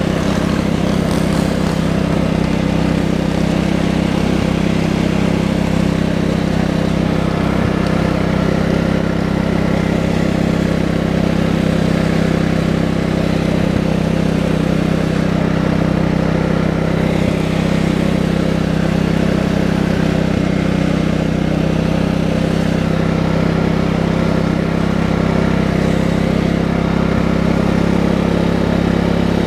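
Tractor engine running at a steady speed, a constant drone that holds the same pitch throughout.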